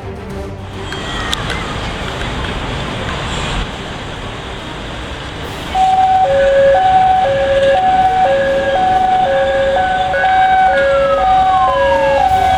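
Traffic noise, then about six seconds in a loud two-tone hi-lo emergency-vehicle siren starts, switching steadily between a high and a low note. Near the end a second siren tone glides downward.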